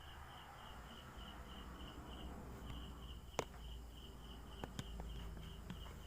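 A cricket chirping steadily in a regular pulse, about four chirps a second, with a few sharp clicks, the loudest just past the middle.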